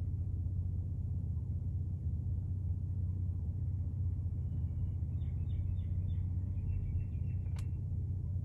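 Steady low hum, with a small bird giving a quick run of short, high chirps from about four and a half seconds in, and one sharp click near the end.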